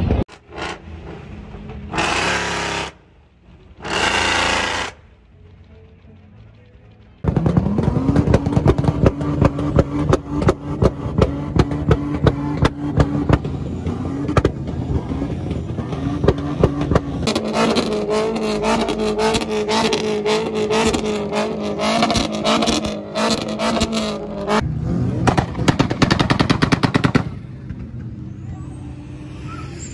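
A car engine revs up sharply and is held high on the rev limiter for a burnout, running in a rapid popping stutter for about twenty seconds. Its pitch drops a step midway and it cuts off suddenly near the end. Two short loud noisy bursts come first.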